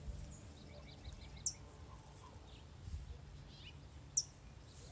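A small bird's short, high chirp, heard twice about two and a half seconds apart, over a faint steady low background hum.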